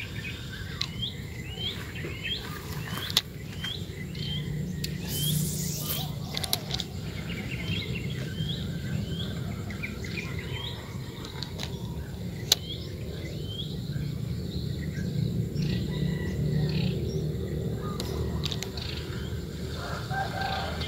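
A bird calling over and over, short hooked chirps about two a second through the first half, fading later. Two sharp clicks stand out as the loudest sounds, over a steady low rumble.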